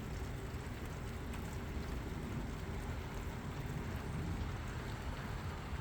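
Steady rain falling outdoors, an even wash of noise with a low rumble beneath it.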